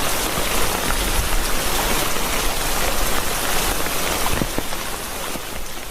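Steady rain falling, a dense hiss with scattered drop ticks, beginning to fade out near the end.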